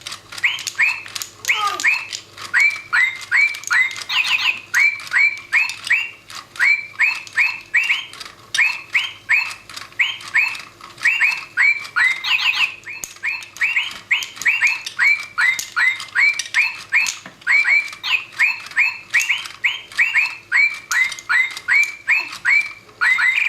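Plastic toy parrot chirping: a long, very regular run of short, high, bird-like chirps, about two to three a second, over a faint steady hum.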